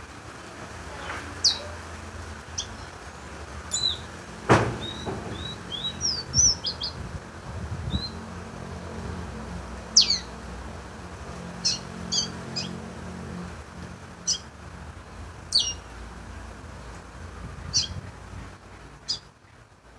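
A small songbird calling: short, sharp, downward-sweeping chirps, one every second or two, with a brief run of quick notes about six seconds in. A single knock sounds about four seconds in.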